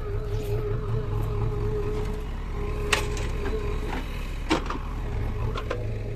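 Heavy diesel machinery running with a steady low drone, with two sharp knocks: one about three seconds in and another about a second and a half later.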